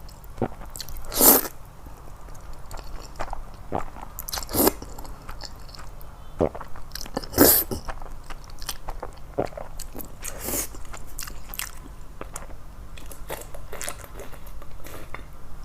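Close-up eating of noodles: four loud slurps, roughly every three seconds, with chewing and small wet mouth clicks in between.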